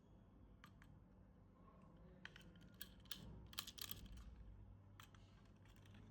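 Faint scattered clicks and taps, like plastic pieces being handled, with a quick run of them about three to four seconds in.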